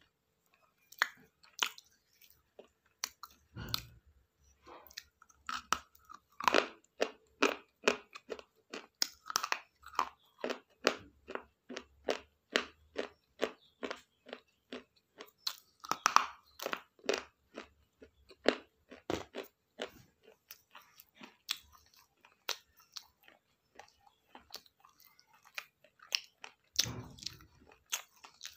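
A person chewing crunchy food close to the microphone: a steady run of crisp crunches, about two to three a second, with a couple of heavier bites.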